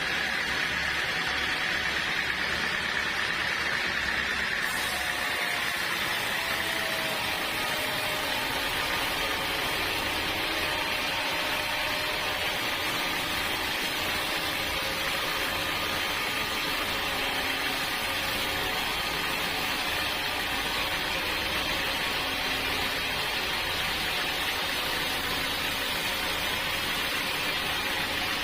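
Sawmill machinery running steadily without a break, a constant mechanical hiss and hum. A faint tone glides down about six seconds in.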